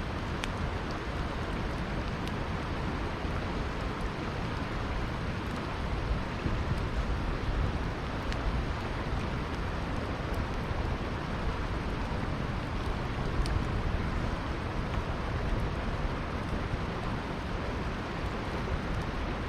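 Campfire crackling with a few sharp pops, scattered a second or more apart, over the steady rush of a flowing river.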